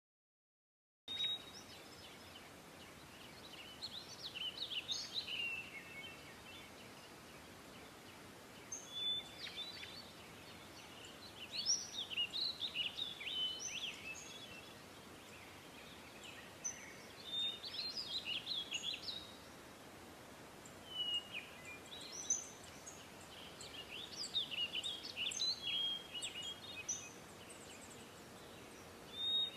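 Birds singing: short, high chirping phrases that come and go every few seconds over a steady faint hiss. It starts after about a second of silence.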